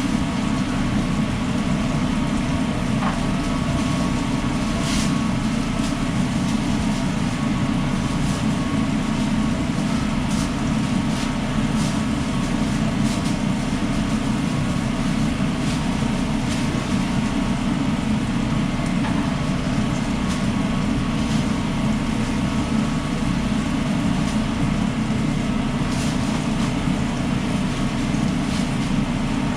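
Steady, loud machinery drone of a food truck's onboard equipment, with a faint high hum and a few light clicks and clatters of kitchen work.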